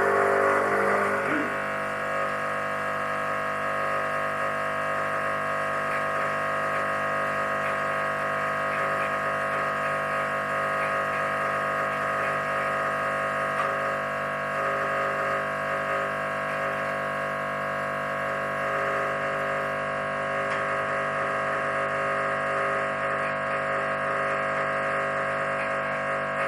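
Espresso machine pump running steadily against a blanking disc during a backflush of the group head with Puly Caff cleaner. It starts abruptly just before and holds one unchanging hum throughout.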